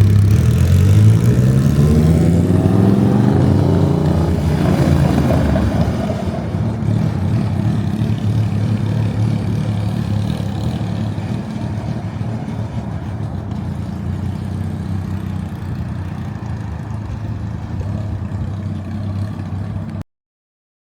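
Yamaha MT-07's parallel-twin engine revving up on rollers, its pitch climbing for about five seconds, then a steady running sound that slowly fades before cutting off suddenly near the end.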